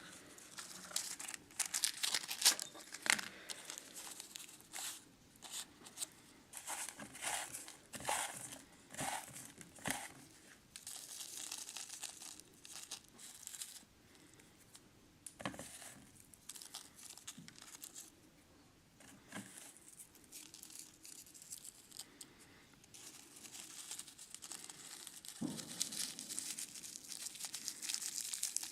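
Cigarette rolling paper and crumbled dried tobacco leaf crinkling and rustling in the hands as a cigarette is rolled and twisted closed. The rustling comes in irregular bursts, busiest at first, dropping away in the middle, with a soft knock and more rustling near the end.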